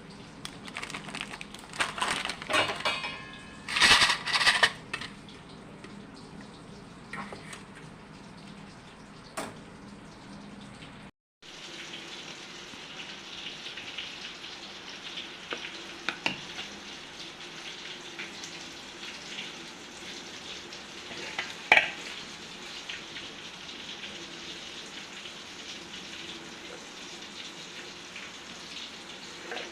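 Kitchen food preparation: dishes and utensils clatter loudly for the first few seconds, then a steady hiss runs on with occasional clinks of utensils.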